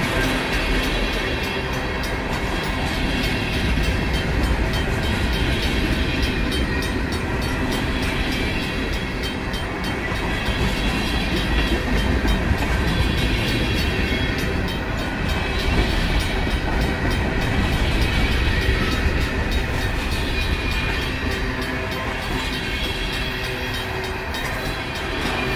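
Union Pacific freight train of tank cars and covered hoppers rolling steadily past at a grade crossing. The crossing's RACO mechanical bell rings along with the wheel noise.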